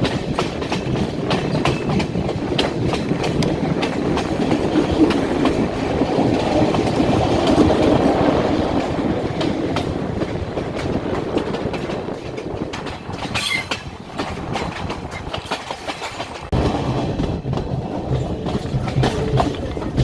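Passenger train running along the rails: a steady rumble with repeated clicks of wheels over rail joints. A brief high squeal comes about two-thirds of the way through, and the sound jumps louder abruptly about three-quarters through.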